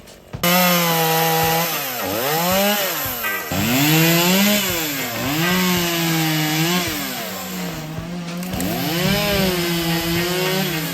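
Stihl chainsaw running hard through wood. It starts about half a second in, and its pitch sags and climbs again several times as the chain bites into the cut.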